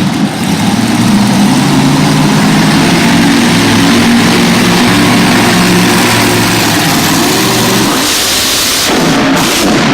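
Monster truck engine running loud and steady, its note dropping away about eight seconds in.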